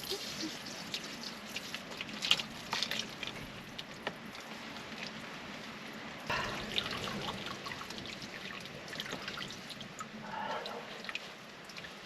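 Water dripping and trickling, with irregular small splashes and drips throughout.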